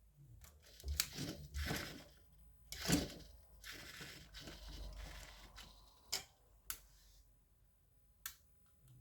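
Small plastic parts being handled as servo-type leads are plugged into an RC car's receiver: a few sharp clicks and knocks with a stretch of rustling in the middle.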